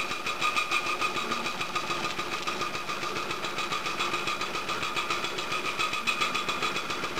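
Live-steam Markie model road locomotive's steam engine running steadily on test, with a rapid, even beat.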